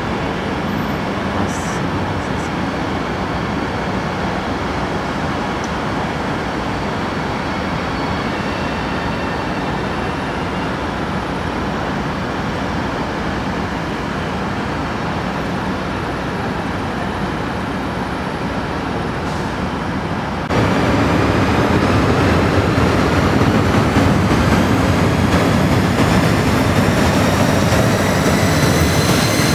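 Steady rumbling background noise, then, after a sudden jump in level about two-thirds of the way through, an electric train's motors whining in several tones that rise steadily in pitch as it pulls away.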